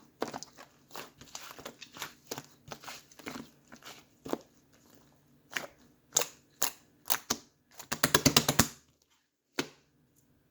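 Slime being squeezed and poked by hand, making irregular sticky clicks and pops, with a quick run of loud pops about eight seconds in before it goes nearly quiet.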